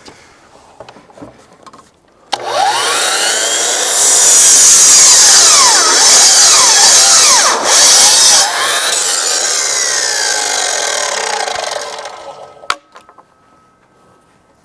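Power saw starting up and cutting through a wooden fence board. The cut is loudest for about four seconds, then the saw runs on more quietly before stopping.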